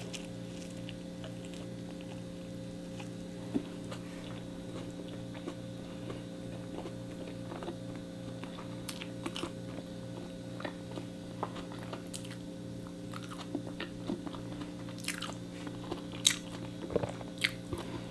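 Close-miked chewing of a sandwich with lettuce: soft wet mouth clicks, smacks and light crunches that come more often in the second half, over a steady low hum.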